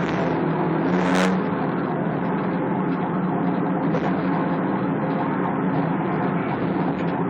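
Motor vehicle driving: steady engine hum under road noise, with a brief hiss about a second in.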